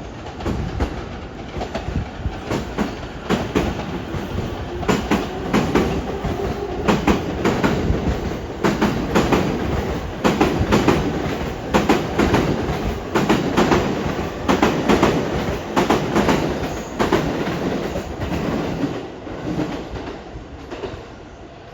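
JR East E231 series electric train pulling out past the platform, its wheels clacking over rail joints in a quickening, irregular rhythm over a steady rumble. The sound fades away over the last few seconds as the last car leaves.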